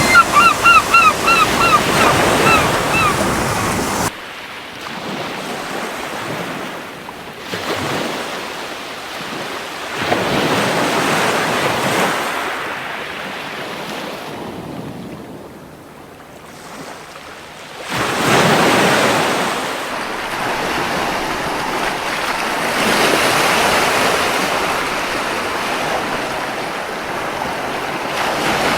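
Ocean surf washing onto a beach, its hiss swelling and fading as waves break, with a sharp drop about four seconds in and a new wave surging in around eighteen seconds. Near the start a seagull gives a quick run of short, repeated cries.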